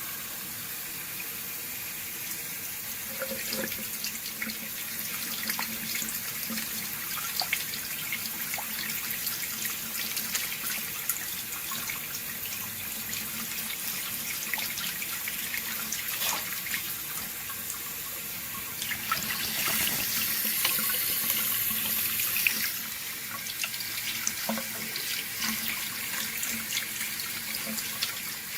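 Sink faucet running steadily into a glass in the sink. The stream gets louder and hissier for a few seconds about two-thirds of the way through.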